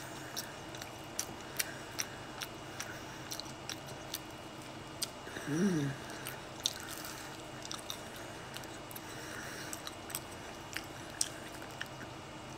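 Person chewing a bite of a tortilla-wrapped cheeseburger and fries sandwich: scattered wet mouth clicks and smacks, with a short hummed "mm" about halfway through.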